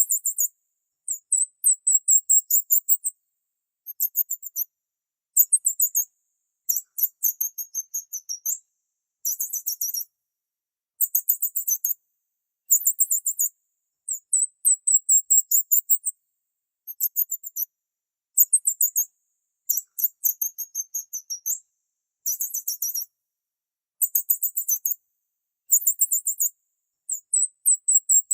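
Small bird chirping: very high-pitched phrases of rapid notes with a few short gliding whistles, each phrase about one to two seconds long, repeating with brief pauses.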